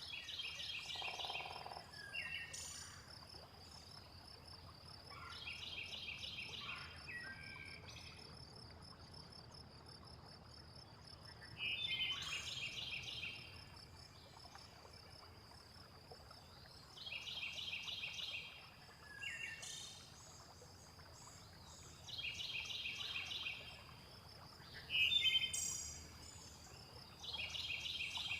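A bird repeating a short, rapid chirping phrase about every five seconds, over a steady high insect trill that runs without a break.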